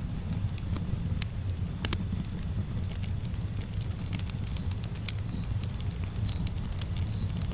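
Campfire burning: a steady low rumble of the flames with scattered sharp crackles and pops from the burning wood. From about the middle on, a faint high chirp repeats about once a second.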